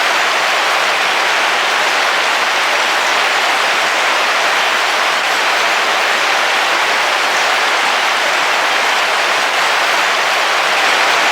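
Heavy rain drumming steadily on a camping car's roof, heard from inside the vehicle.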